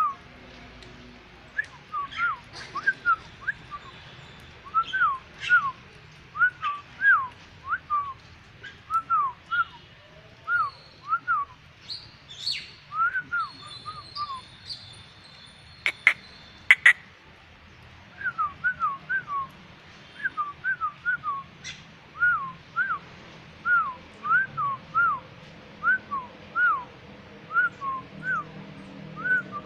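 Jalak putih (white myna) calling steadily: short whistled notes that swoop up and down, one or two a second. Near the middle there is a pause of a few seconds, broken by two sharp clicks.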